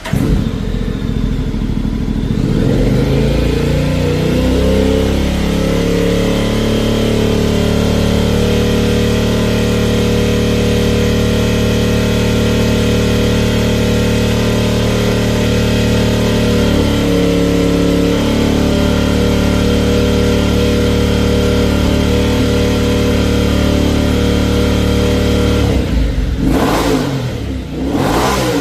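Honda X-ADV 750 parallel-twin engine breathing through an Akrapovic slip-on exhaust. Its pitch climbs over the first few seconds, then it runs at a steady idle, and near the end it is revved sharply two or three times.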